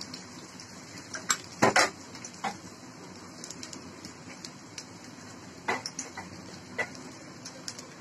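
Metal spoon clinking and scraping against a kadai in a few sharp knocks, the loudest cluster about two seconds in, while onions fry in oil with a faint steady sizzle.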